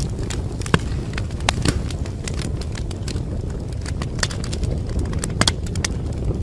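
Wood fire burning in a fireplace: a steady low rumble of the flames with irregular sharp crackles and pops of the burning logs, several louder snaps a little under a second in, around one and a half seconds and about five and a half seconds in.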